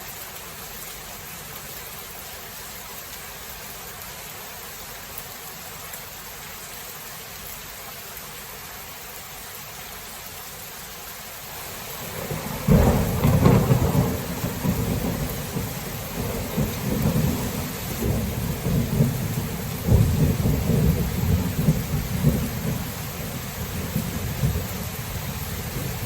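Thunderstorm: steady rain for about twelve seconds, then thunder breaks in with a loud low rumble that keeps rolling in waves over the rain.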